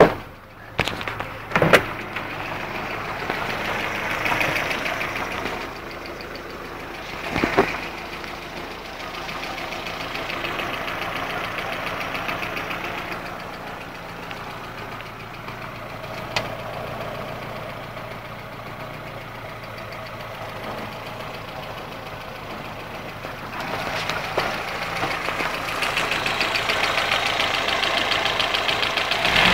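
Wartburg 1.3's four-cylinder four-stroke engine idling steadily. A few sharp knocks come in the first couple of seconds and another about a quarter of the way in. It runs louder for the last five or so seconds.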